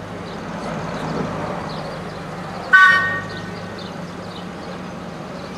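A miniature railway locomotive gives one short toot on its whistle, several notes sounding together, about halfway through, over a steady low hum.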